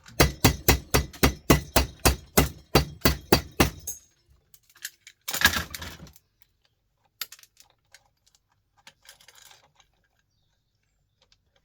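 Rapid metal tapping on the brass parts of an old light fitting, about five sharp taps a second for some four seconds. Then a short rattling clatter about five seconds in, and a few faint clinks.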